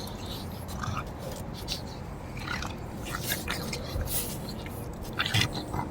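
Puppies moving about and chewing: scattered small clicks and scrapes, with a louder knock about five seconds in.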